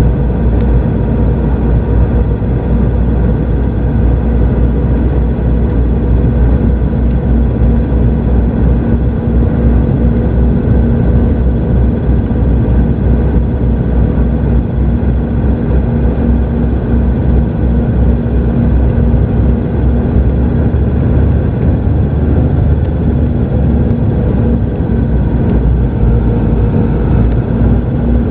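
Cabin noise inside a Boeing 717-200 airliner on its landing: a steady, loud rush of airflow and the rear-mounted turbofan engines, with a few steady hum tones running through it.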